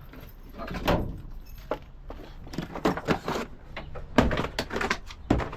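A few separate knocks and thuds, the loudest and sharpest about four seconds in.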